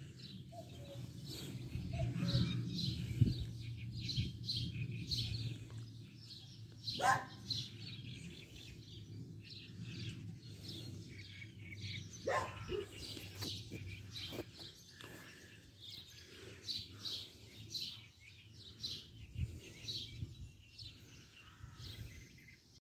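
Small birds chirping repeatedly, short high calls scattered throughout. A low rumble sits under them in the first few seconds, and two louder calls slide down in pitch about seven and twelve seconds in.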